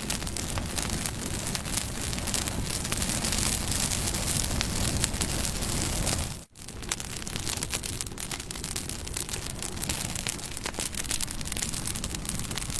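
Campfire burning with a steady hiss and many small crackles and pops of the wood. About halfway through the sound dips out for a moment and comes back.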